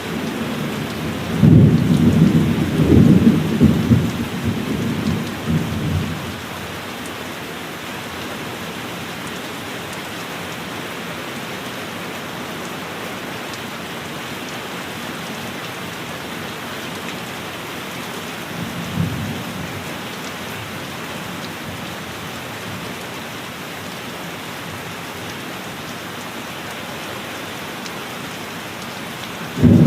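Steady heavy rain with thunder: a loud rumbling peal from about a second and a half in, dying away by about six seconds, a short low rumble around nineteen seconds, and another peal breaking at the very end.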